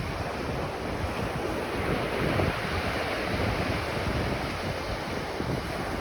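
Ocean surf washing onto a beach in a steady rushing wash that swells slightly a couple of seconds in, with wind buffeting the microphone.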